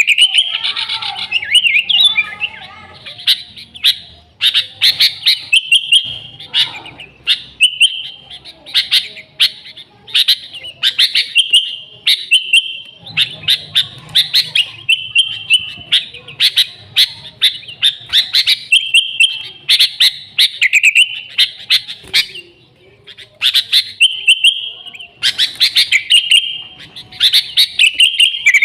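Sooty-headed bulbuls (kutilang) calling busily and without pause: short, sharp chirping phrases repeated about once a second.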